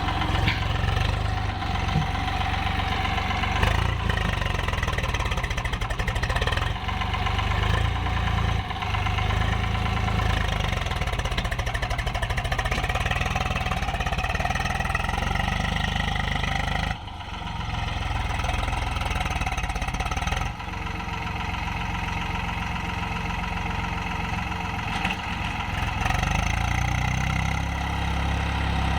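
Tractor diesel engine running steadily while pulling a trolley loaded with sand. The sound dips briefly twice a little past the middle.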